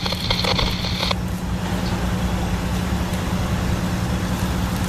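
Fire apparatus engine idling with a steady low rumble. A higher-pitched steady noise over it cuts off suddenly about a second in.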